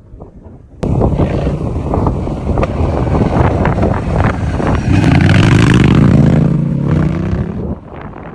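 Honda Rebel 1100 parallel-twin engine running with its exhaust pipe removed: loud, raw open-header sound full of crackle. It comes in suddenly about a second in, its pitch rises as it revs up past the middle, then it drops away near the end.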